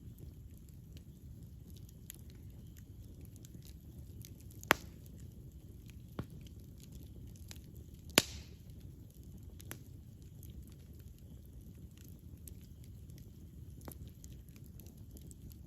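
Wood campfire burning with a low steady rumble and scattered small crackles, and two sharp loud pops from the burning wood, about five seconds in and past the middle, the second trailing a brief hiss.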